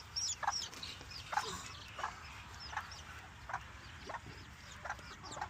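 Chickens calling in a coop: many short, high, falling peeps overlap, with a lower short call repeating about every three-quarters of a second.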